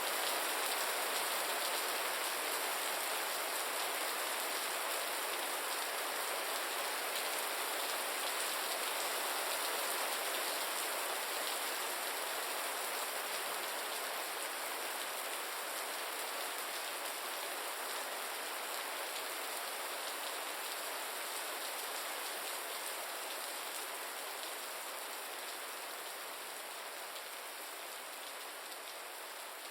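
Steady, gentle rain falling as a dense even hiss of drops, gradually fading out.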